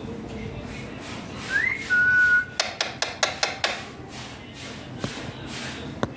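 Ringneck parrot whistling: a short rising note goes into a held steady whistle, followed by a quick run of about seven sharp, clicky chattering notes.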